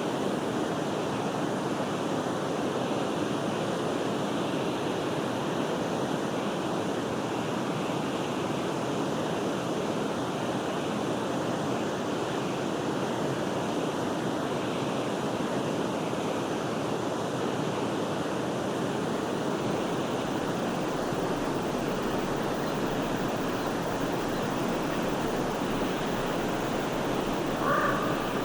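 Forest river water flowing in a steady rush. Near the end a bird gives a short call.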